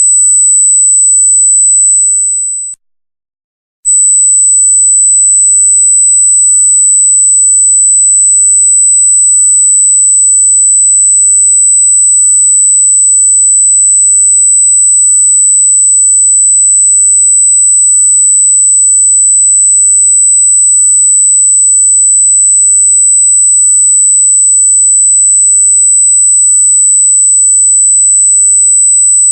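Very loud, steady, very high-pitched pure electronic tone. About two seconds in it dips, cuts out for about a second, then comes back abruptly at full strength.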